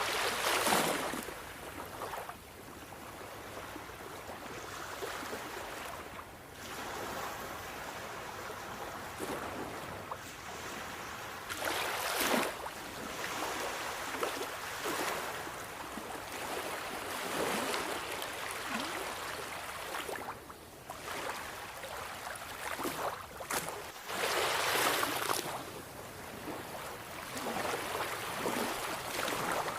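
Sea waves breaking and washing in, swelling and ebbing in repeated surges every few seconds, with the biggest swells about halfway through and again near the end.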